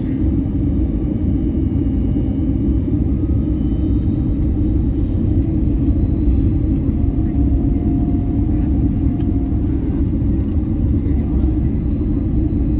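Steady low rumble of an Airbus A321 airliner's engines and airflow, heard from inside the cabin during the landing, with a constant low hum running through it.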